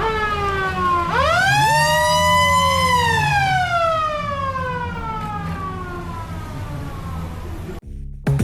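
Siren wailing over a low rumble of traffic: the tone falls briefly, rises over about two seconds, then falls slowly for about five seconds. It cuts off abruptly near the end.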